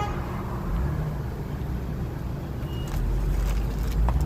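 Low, steady rumble of road traffic, growing louder about three seconds in as a vehicle passes close by.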